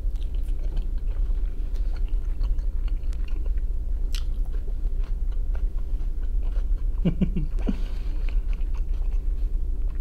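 A person chewing fried capelin close to the microphone, with many small wet mouth clicks and smacks. A brief low vocal sound comes about seven seconds in, over a steady low hum.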